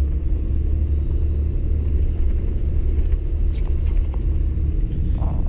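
Steady low rumble of a car driving slowly over rough, packed snow and ice, with a couple of light clicks about three and a half seconds in.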